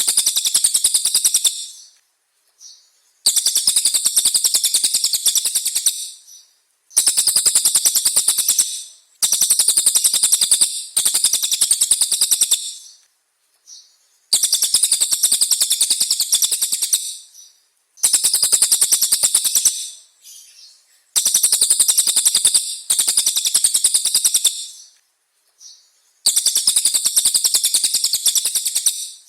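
A songbird singing a run of loud, fast, rattling trills. Each phrase lasts two to three seconds, with short pauses between.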